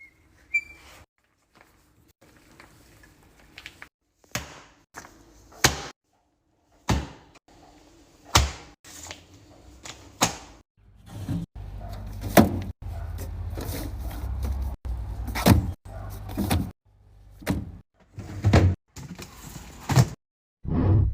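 Refrigerator being restocked: a series of knocks, clacks and thunks as containers are set down and fridge drawers and doors slide and shut, with a low hum for a few seconds in the middle.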